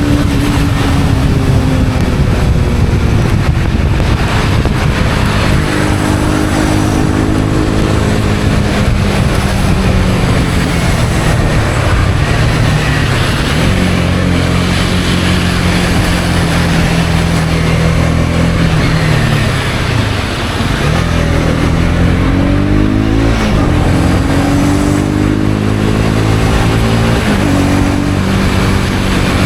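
Honda CB250R's single-cylinder engine running under way, its pitch rising and falling in steps through gear changes; it drops right down about twenty seconds in, then climbs again as the bike pulls away. A steady hiss of wind and wet road runs beneath it.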